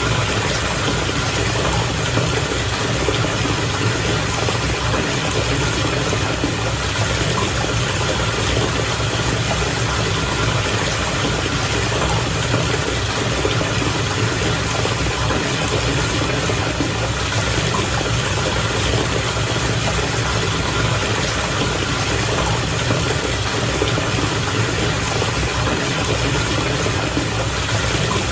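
Bathwater bubbling and churning steadily, with a constant low hum underneath.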